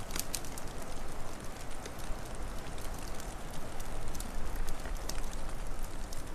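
Wood fire crackling, with scattered sharp pops over a steady rushing hiss and low rumble. A few louder pops come just after the start and again about five seconds in.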